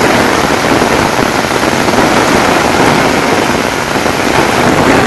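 Heavy monsoon downpour falling on trees in a windy storm: a dense, steady rush of rain, with wind buffeting the microphone in a low, uneven rumble.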